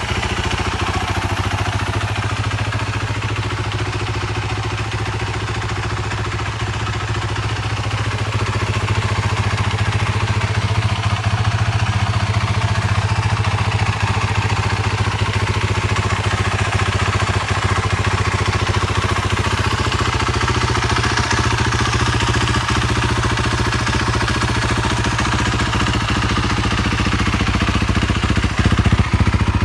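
BMW G450X's single-cylinder four-stroke engine idling steadily.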